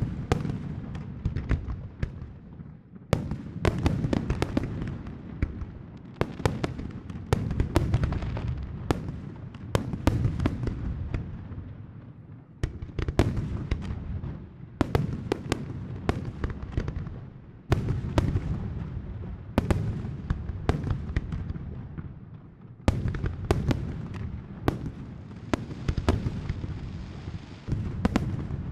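New Year's Eve fireworks: a steady barrage of sharp bangs from rockets and firecrackers, coming in waves every few seconds over a continuous low rumble of distant explosions.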